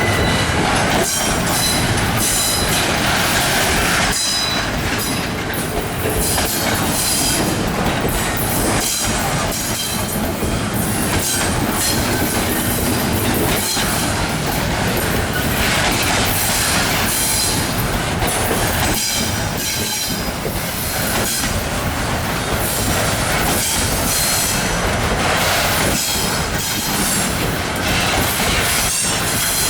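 Norfolk Southern freight train's cars rolling past at close range: a steady loud rumble of wheels on rail with frequent clicks and clacks over the rail joints and a thin high squeal from the wheels.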